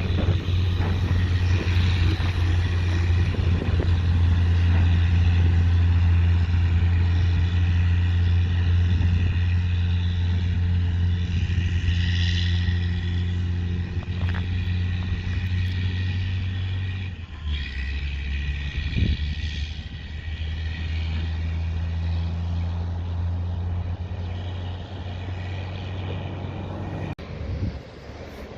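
Peterbilt 379 semi truck's diesel engine running under load with a steady low drone; its note drops about seventeen seconds in, and the sound slowly fades.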